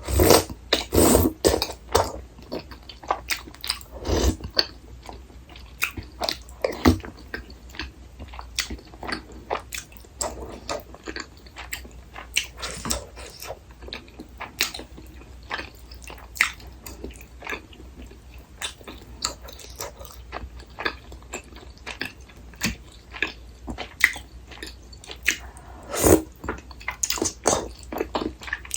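Close-miked eating sounds of tteokbokki, a rice-cake dish: irregular chewing and biting with many short mouth clicks and smacks, and a few louder bites.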